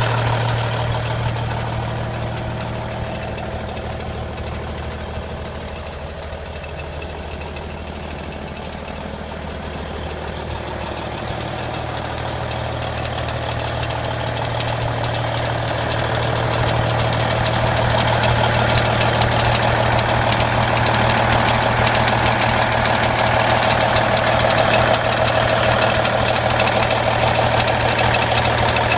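Cummins N14 inline-six diesel in a Kenworth W900 highway tractor idling steadily. It fades somewhat about a quarter of the way in, then grows louder again in the second half.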